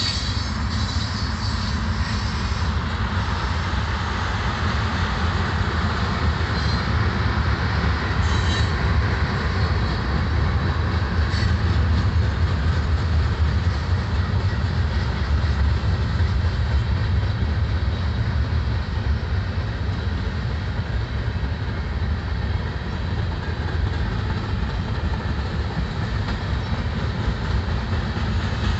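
Freight train cars, covered hoppers and coal gondolas, rolling past steadily: a continuous deep rumble and rattle of steel wheels on rail, with a few brief faint high-pitched wheel squeals in the first half.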